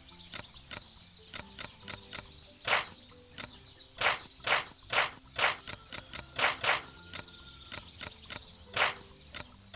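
A series of irregular sharp taps, about a dozen, the loudest bunched in the middle, over faint background music.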